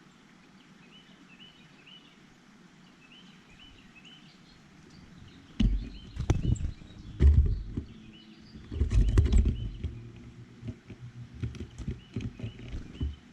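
Small birds at a seed feeder. A series of short high chirps, then, from about halfway in, loud irregular knocks and thumps close to the microphone from birds landing and pecking on the feeder.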